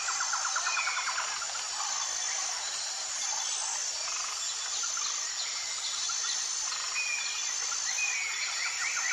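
Jungle ambience: a steady high insect drone, with short whistled bird calls over it. A rapid pulsing trill sounds for about a second at the start and returns near the end.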